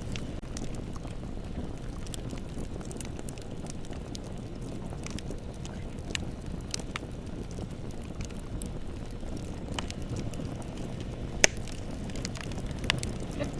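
Bonfire burning: a steady low rumble with scattered crackles and pops, one sharper pop about eleven seconds in.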